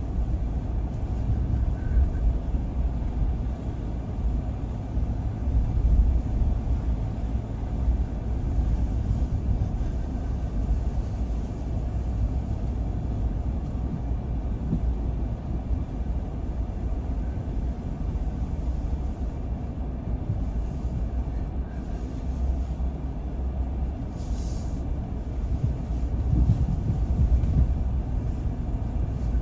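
A car being driven: a steady low rumble of engine and tyre noise.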